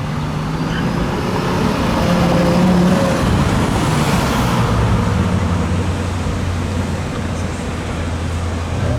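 A car engine running at low revs as it drives slowly past. It swells to its loudest a few seconds in, then settles to a steady low drone.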